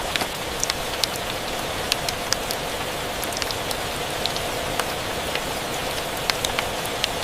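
Steady rain falling, with many short sharp ticks scattered irregularly through it.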